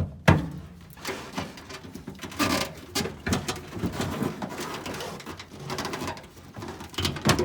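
Handling noise of a taped wiring harness being pushed and pulled through a car body's tunnel: irregular rubbing, squeaking and knocks of tape and wire against sheet metal, with a sharp knock just after the start.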